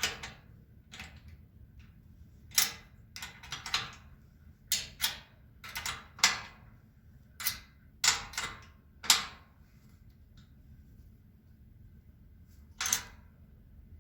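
Metal shelving parts knocking and clanking as they are handled and fitted together: a dozen or so sharp, uneven knocks, most of them in the first nine seconds, and one more near the end.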